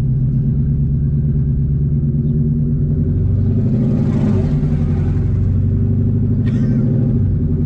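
Twin-turbo Mustang with open exhaust dumps, heard from inside the cabin while driving: a loud, deep, steady engine drone. About halfway it briefly swells with a rushing hiss.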